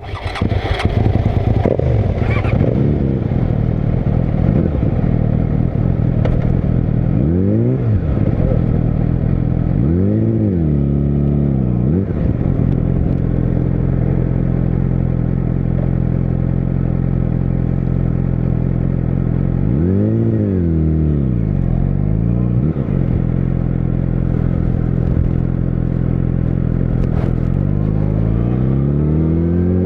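Yamaha YZF-R6 (RJ27) inline-four engine running steadily at low revs while being ridden slowly downhill. Four short throttle blips rise and fall through the middle, and near the end the revs climb steadily as it accelerates.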